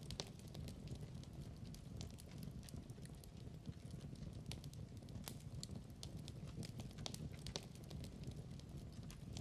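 Wood fire crackling in a fireplace: a steady low roar of flames with irregular sharp pops and snaps.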